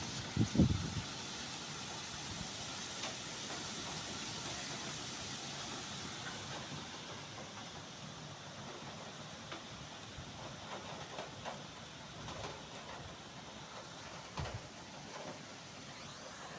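Heavy rain in a downpour: a steady hiss with scattered drips and taps, easing a little in the second half. A couple of brief low thumps, one at the start and one near the end.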